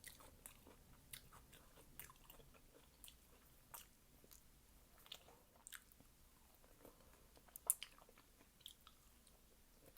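Faint chewing of fruit in the mouth: scattered soft mouth clicks and smacks about once a second, with a louder pair of clicks about three-quarters of the way through.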